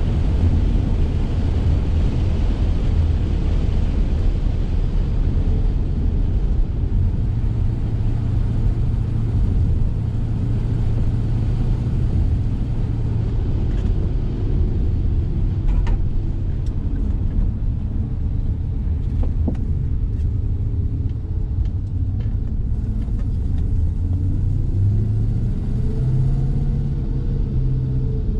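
BMW Glas 3000 GT's V8 engine running under way, with tyre and road rumble heard from inside the cabin. Near the end the engine note climbs as the car accelerates.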